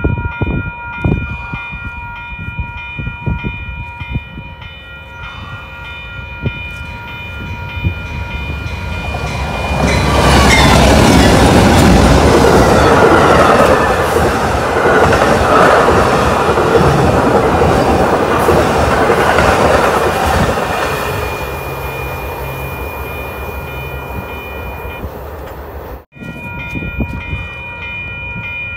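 Railroad grade-crossing bell ringing in a steady repeating pulse as an Amtrak passenger train approaches. About ten seconds in, the passing train becomes loud for roughly ten seconds as the locomotive and cars go by on the rails, then fades while the bell keeps ringing.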